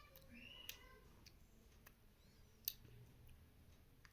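Faint, scattered clicks of a cat eating, chewing and lapping at its food, with one sharper click about two and a half seconds in.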